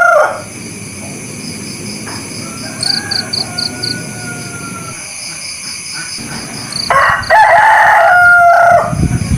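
Roosters crowing. A loud crow cuts off just after the start, a fainter crow follows a couple of seconds in, and another loud crow comes near the end, over a steady high-pitched background with a few quick chirps.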